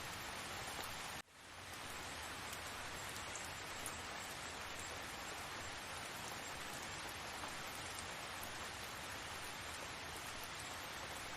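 Steady rainfall, an even hiss with faint patter of drops. It cuts out abruptly about a second in and fades back up within half a second.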